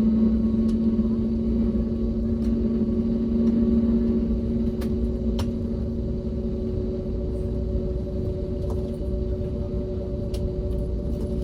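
Steady cabin hum of an Airbus A321neo on the ground before takeoff: a low rumble with several steady droning tones, the lowest of which fades out about halfway through, and a few faint clicks.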